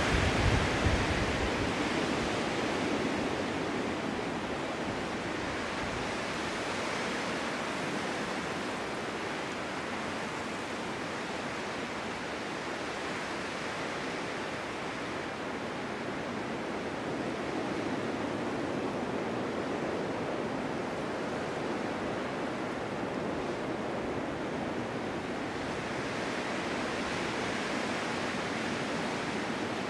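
Snowstorm wind blowing steadily, swelling and easing in slow gusts, with a brief low buffet about half a second in.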